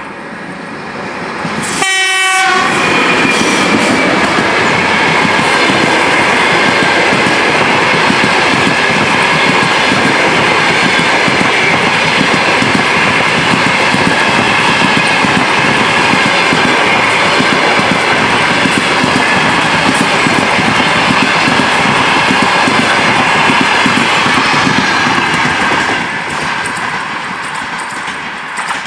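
A DS3 electric locomotive with a passenger train gives a short horn blast about two seconds in, then passes close by with loud, steady rolling noise of wheels and carriages and a faint high whine over it. The noise drops off near the end as the train moves away.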